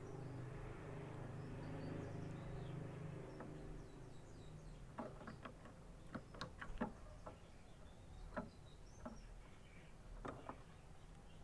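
A quiet canary: a few faint, short high chirps and scattered sharp clicks and taps, most of them in the second half. A low steady hum sits under the first few seconds.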